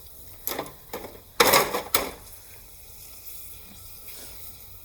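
Chicharrones dropped into hot frying oil, sizzling and crackling in several short bursts, the loudest about a second and a half in, settling to a faint hiss.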